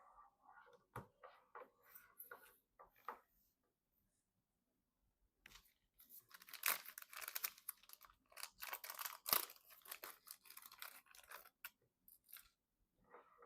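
Plastic packaging being handled and torn: a few light clicks and rustles, then about five seconds of dense crinkling and tearing from about six seconds in.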